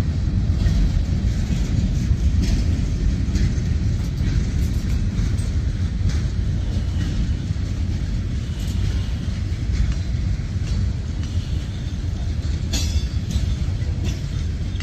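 Freight train's covered hopper cars rolling past at close range: a steady low rumble of steel wheels on rail, with sharp wheel clicks every second or so and a brighter cluster of clicks near the end.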